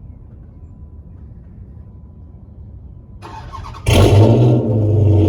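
Dodge Charger's Hemi V8 cold-starting through a catless exhaust with SLP Loudmouth single-stage mufflers. About three seconds in, the starter cranks briefly. The engine then fires loudly, flares up and settles into a steady fast cold idle near the end.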